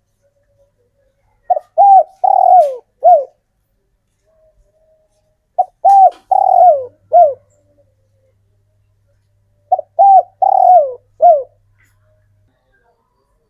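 Male spotted dove cooing: three phrases about four seconds apart, each of four notes, two short ones, a longer falling one, then a short one.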